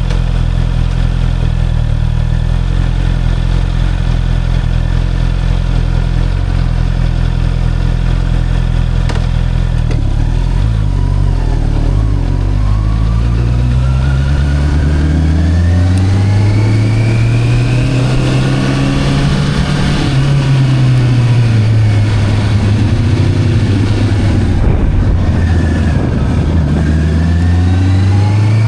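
Motorcycle engine running steadily at low revs, then accelerating with a rising pitch from about halfway through. It eases off and climbs again near the end.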